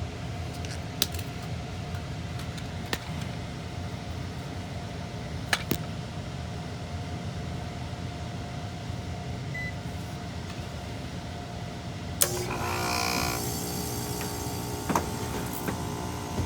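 Water source heat pump's blower fan running with a steady low hum, with a few sharp clicks. About twelve seconds in, the compressor kicks on: the sound gets suddenly louder and a steadier, more tonal hum follows. This is the sign that the unit is now calling for heat.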